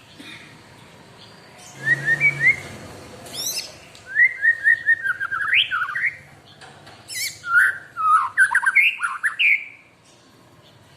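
White-rumped shama singing: several varied phrases of quick whistled notes sliding up and down, with short pauses between them, starting about two seconds in and stopping near the end.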